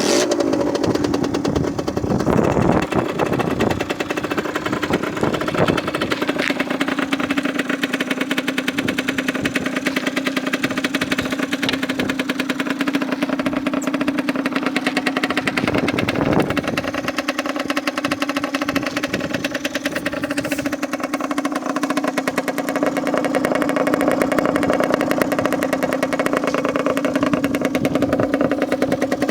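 Rieju RR 50cc two-stroke motorcycle engine starting and settling into a steady, fast-pulsing idle, with a few short throttle blips along the way, one of them about sixteen seconds in.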